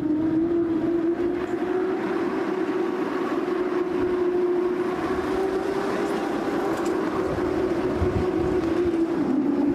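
Talyllyn Railway narrow-gauge train running along the line, heard from inside a coach: a steady drone with a hum that drifts slowly up and down in pitch, over the rumble of the running gear.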